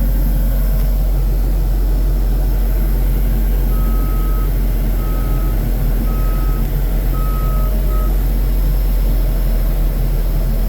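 2022 Case SV280B skid steer's diesel engine running steadily, with its backup alarm beeping five times, about once a second, starting about four seconds in; the alarm is the sign that the machine is in reverse.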